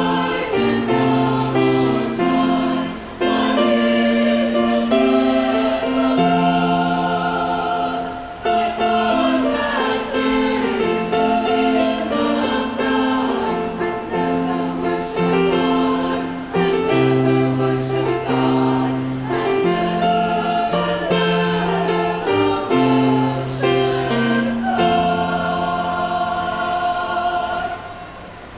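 A chamber choir singing a Christmas piece in harmony, with low bass voices under sustained chords. It closes on a long held chord near the end.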